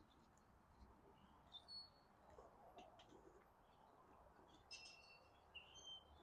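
Near silence with faint bird chirps: a few short high calls about a second and a half in, and more near the end.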